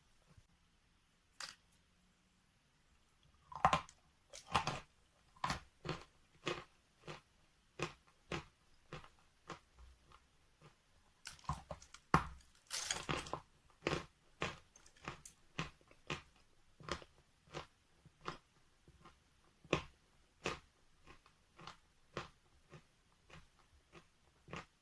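A person biting and chewing wet natural chalk: a steady run of crisp crunches, one to two a second, with a couple of louder bursts of crunching around four and twelve seconds in.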